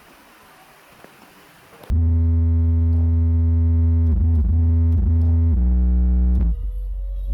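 Faint steady noise, then about two seconds in loud electronic dance music from a horeg sound system starts abruptly, dominated by very heavy sustained bass notes that bend in pitch. The music drops lower briefly near the end.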